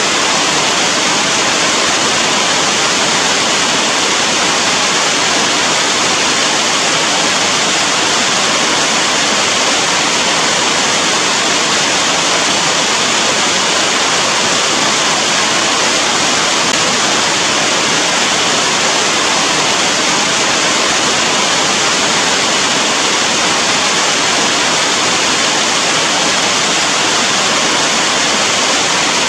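Steady rain, a dense, even hiss without separate drops or pauses.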